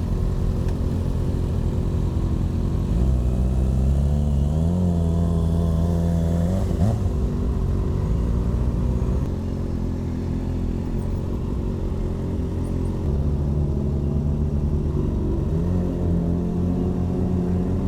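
Kawasaki ZX-6R inline-four engine running under way with a steady low rumble, its pitch climbing and levelling off twice as it accelerates, about a quarter of the way in and again near the end.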